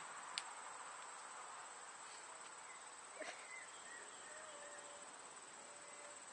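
Insects, such as crickets, chirring steadily at a high pitch, with a single sharp click about half a second in and a faint knock around the middle.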